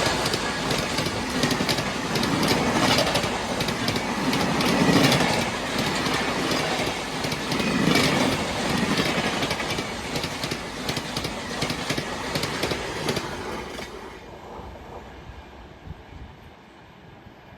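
A passenger train passing close at speed, its wheels clattering over the rail joints in a rapid run of clicks, the sound falling away about 14 seconds in as the train goes by.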